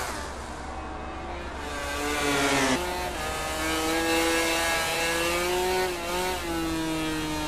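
MotoGP racing motorcycle's four-cylinder engine at high revs. Its pitch climbs, drops sharply at an upshift about three seconds in, then holds high with further small shifts near the end.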